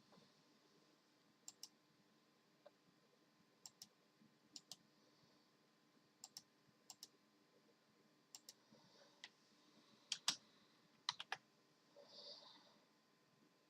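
Computer keyboard keys being pressed slowly and irregularly: sharp clicks, mostly in quick pairs, several seconds apart at first and closer together near the end, with a brief soft rustle just after the loudest clicks.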